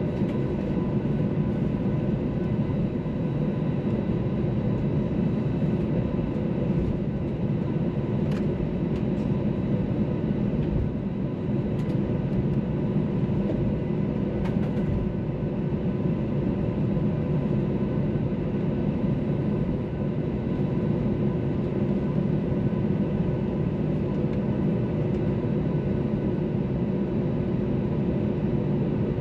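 Airbus A321's IAE V2500 turbofan engines heard from inside the passenger cabin: a steady deep rumble with several steady engine whine tones over it.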